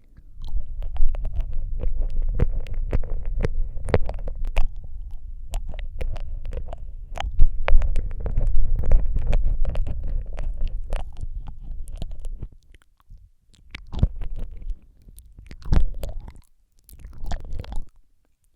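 Wet mouth sounds made right against a microphone: rapid tongue and lip clicks and smacks over a low rumble, broken by short pauses in the last few seconds.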